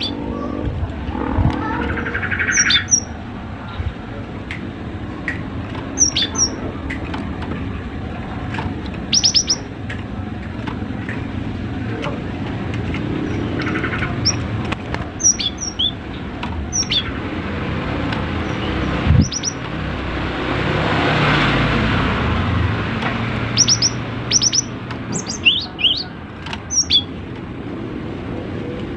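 Cinereous tit (gelatik batu) calling in short, sharp high chirps, in small clusters every few seconds, over steady background noise. A broad swell of noise rises and fades about two-thirds of the way through.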